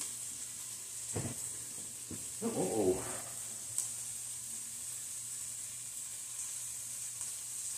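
Steak and poblano peppers sizzling steadily in a skillet on the stove, with a short knock about a second in and a brief pitched voice-like sound about two and a half seconds in.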